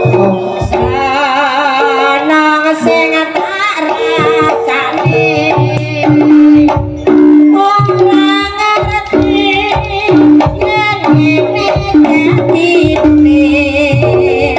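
Live jaranan music: kendang hand drums beating under repeated held gamelan-style tones and a wavering sung melody, loud and without a break.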